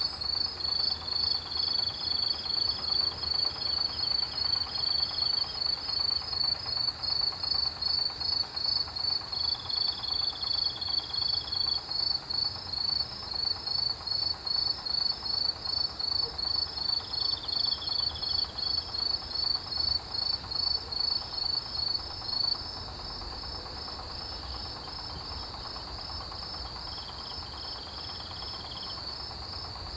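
Autumn grass insects chirping. One loud cricket-like chirp repeats in an even pulse, about two to three a second, and stops abruptly about 22 seconds in, leaving a steady, fainter high trill. A lower trill comes in for a second or two every several seconds.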